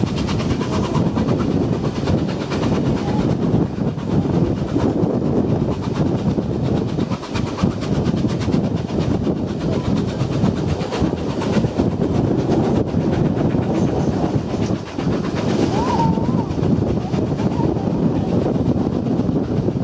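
Train running along the track: a steady rumble with wheels clattering over the rail joints.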